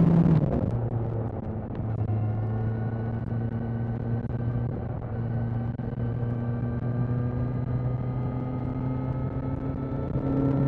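Kawasaki Z900 inline-four engine heard while riding. The revs fall sharply just after the start as the throttle closes, then the engine runs on steadily with its pitch slowly creeping up, and it revs up again near the end.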